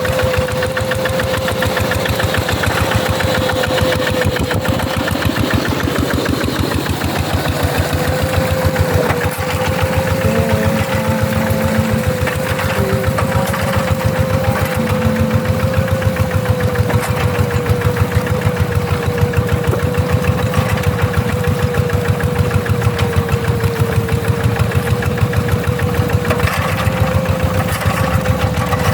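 G1000 two-wheel hand tractor's single-cylinder diesel engine running steadily with a fast, even chugging, and a steady whine held over it.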